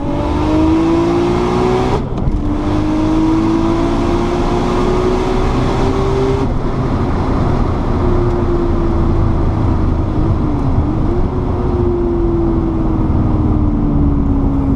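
Single-turbo RB26 straight-six of a 1993 Nissan R32 Skyline GT-R, heard from inside the cabin, pulling hard down a drag strip: revs climb, break for a gear change about two seconds in, and climb again. About six seconds in the throttle lifts and the engine note falls steadily as the car coasts down.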